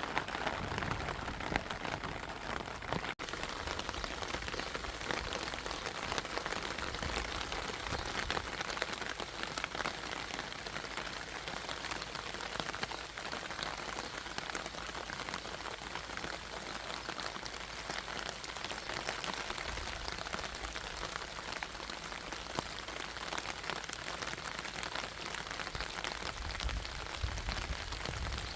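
Steady rain falling, an even hiss dotted with many small ticks of individual drops, with a momentary break about three seconds in.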